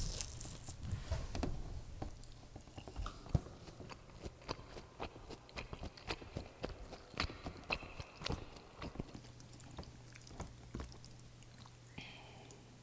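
Close-miked chewing with wet clicks and smacks of the mouth, several a second, thinning out near the end.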